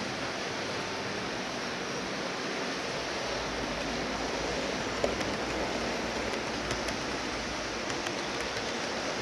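HO-scale model train running on layout track: a steady rushing hum, with a low rumble building about a third of the way in and faint clicks from the rail joints near the end.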